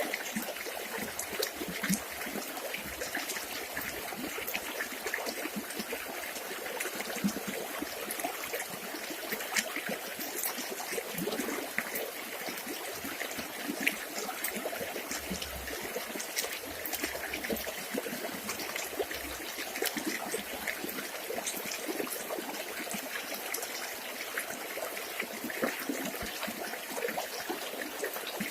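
Village river water trickling and splashing over stones: a steady babble with many small splashes.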